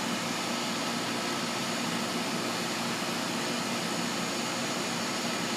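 Central air conditioner's outdoor condensing unit running steadily: the rush of its fan over a low, even hum.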